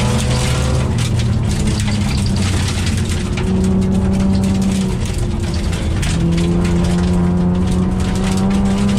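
Mitsubishi Magna VR-X AWD's V6 engine heard from inside the cabin while driving, with steady road and tyre noise. The engine note eases off in the first few seconds, pulls again about three and a half seconds in, dips briefly around five seconds and picks up again from about six seconds.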